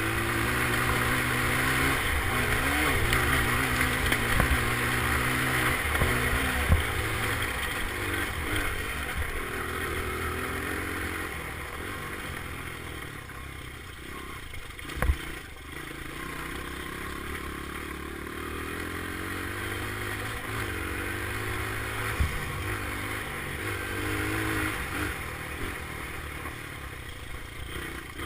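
Dirt bike engine revving up and down as it is ridden around a track, its pitch rising and falling. There are a few sharp knocks, the loudest about halfway through.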